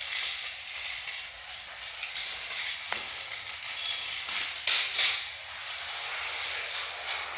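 Battery-powered TrackMaster toy trains running on plastic track: a steady high whirring hiss of small motors and wheels, with a few sharp clicks and clacks, the loudest about two-thirds of the way through.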